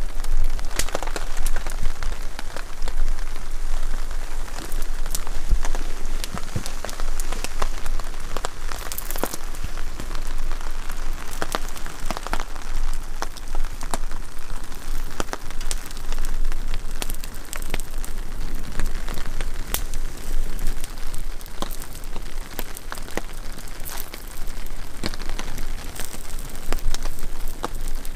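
Steady heavy rain, with many sharp drop impacts scattered through it.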